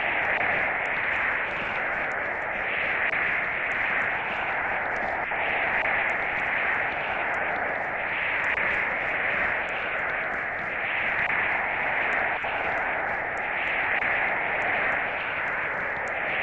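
Steady rushing of water, swelling and easing every two to three seconds, with faint scattered clicks.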